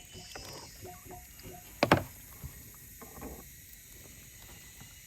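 A sharp knock about two seconds in, with a smaller knock just after, over a run of short, evenly spaced chirps that stops about two seconds in.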